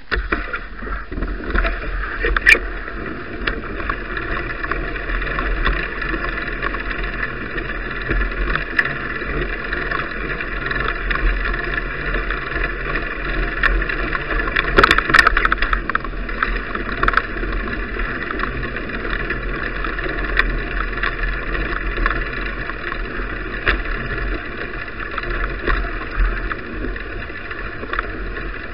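Steady rushing wind and tyre noise of a bicycle ride picked up by a mounted action camera, with a constant low rumble, scattered clicks and rattles from bumps, and a brief burst of knocks about halfway through.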